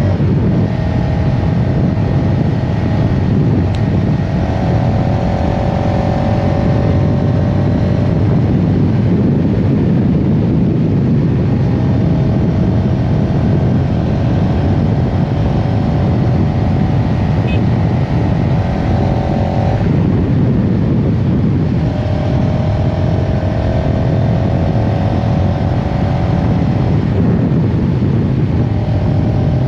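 CFMoto CLX-700 Heritage's parallel-twin engine running on the move, with a loud, steady rush of wind and road noise. The engine's note comes and goes in stretches of a few seconds, drifting slightly in pitch.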